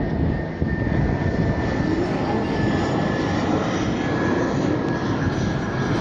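Engines of a Cebu Pacific Airbus A321 jet airliner passing overhead, a steady rushing drone with a faint thin whine that slowly drops in pitch.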